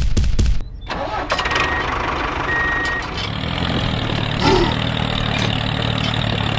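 An engine chugs in rapid even beats and cuts off about half a second in. Then a machine engine starts up and settles into a steady idle.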